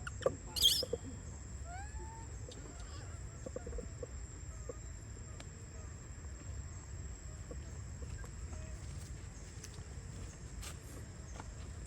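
Outdoor ambience with a steady low rumble and a steady high hum. A few faint short animal calls and chirps come in the first two seconds, with a brief loud hissing burst about half a second in.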